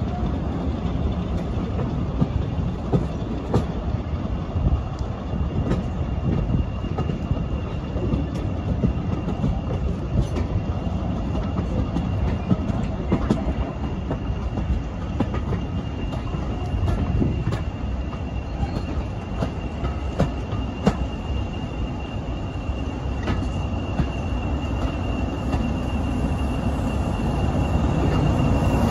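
Heritage passenger train running on jointed track, heard from an open carriage window: a steady low rumble with irregular clicks of the wheels over rail joints and a thin high whine of wheel squeal, stronger in the second half. The sound grows louder near the end.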